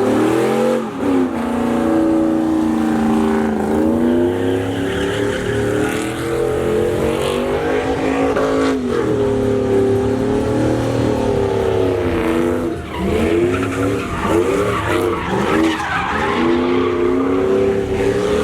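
Pickup truck doing a burnout: the engine is held at high revs while the rear tyres spin and squeal against the pavement. The engine pitch rises and falls repeatedly as the throttle is worked, with brief dips about a second in, near four seconds and around thirteen seconds.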